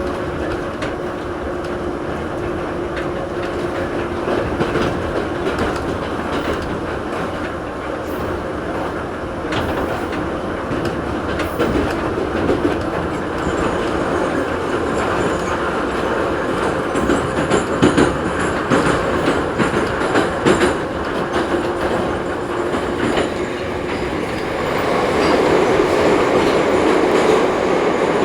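Ezh3 (81-710) metro train running between stations: a steady rumble of wheels on rail, with a faint steady whine. Clusters of rail-joint clicks come in the middle, and the noise grows louder near the end.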